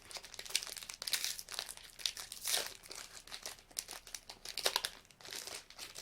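A trading card pack's wrapper crinkling and tearing as it is handled and opened, in irregular crackly bursts.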